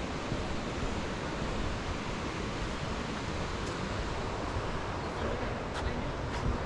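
Steady rushing of a river waterfall, an even wash of noise, with a couple of faint clicks near the end.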